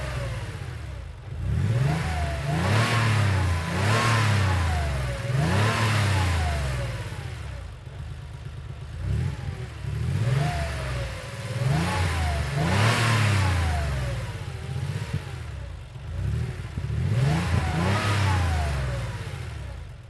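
1990 Porsche 911's air-cooled flat-six idling and being revved in repeated quick throttle blips, the pitch rising and falling back each time, in bursts of several blips with short stretches of idle between. The engine sound stops at the very end.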